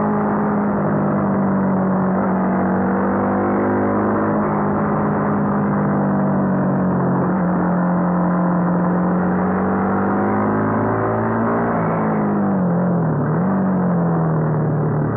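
Honda CBR250R's single-cylinder engine running at steady high revs under way, heard from on the bike. About twelve seconds in, the pitch drops sharply, rises briefly and settles lower as the revs come down.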